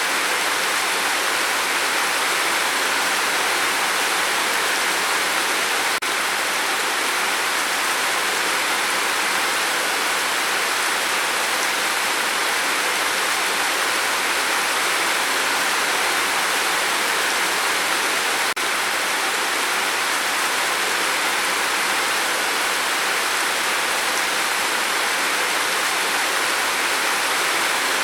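Rain falling steadily, a dense, even hiss with no single drops standing out.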